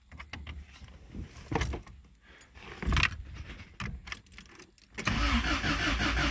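Keys rattling and clicking, then about five seconds in the starter motor cranks the Toyota 20R/22R hybrid four-cylinder over steadily. It does not fire, because the ignition is not connected.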